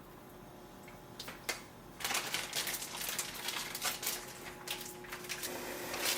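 Food-preparation handling sounds: two sharp clicks, then from about two seconds in a fast run of clicking and crinkling.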